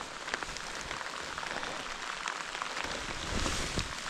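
Steady rain pattering on tent fabric, a dense spread of small drop ticks, with a brief louder rustle about three and a half seconds in.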